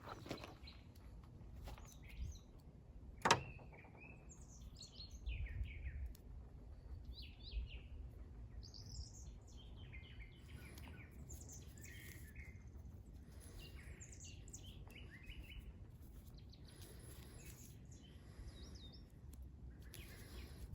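Small birds chirping and calling throughout, with one sharp click or tap about three seconds in.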